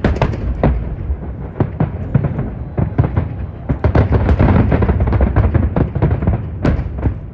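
Fireworks display: aerial shells bursting in rapid, overlapping bangs, several a second, over a steady low rumble. One last big bang comes near the end as the barrage thins.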